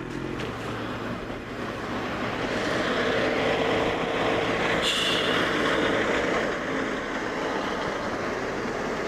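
Road vehicle noise swelling as a vehicle passes close by, with a brief high squeal about five seconds in.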